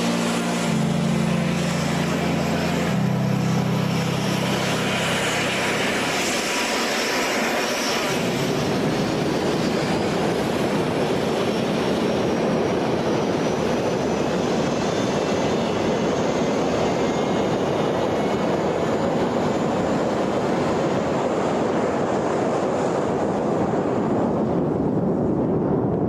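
Held music chords for the first several seconds, then the steady jet noise of an A-10 Thunderbolt II's twin turbofan engines: a broad rush with a thin high whine above it. Near the end the high hiss fades.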